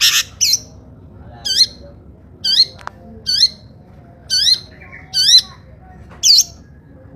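Long-tailed shrike (cendet) giving a run of shrill, sharp screeching calls, about eight short calls roughly one a second, each sweeping quickly up and down in pitch.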